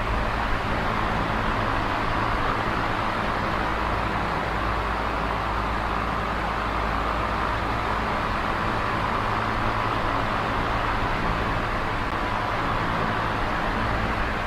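Small oscillating electric fan running steadily: a continuous whoosh of moving air with a low motor hum underneath.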